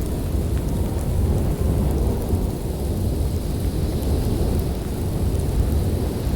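Snowstorm ambience: a steady, deep rumble of storm wind with no break, with faint scattered ticks above it.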